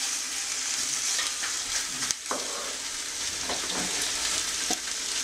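Diced pork sizzling and frying in hot olive oil in a pan, stirred with a wooden spoon, with a few short knocks.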